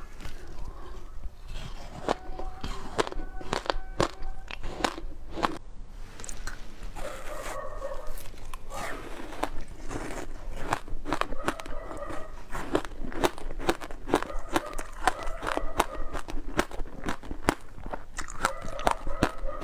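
Close-miked biting and crunching of frozen passion fruit ice, many sharp crunches at an irregular pace.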